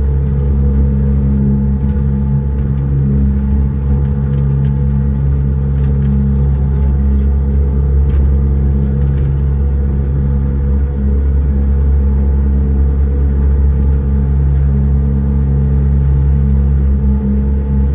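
Engine running at a steady speed, a constant low rumble with a steady drone.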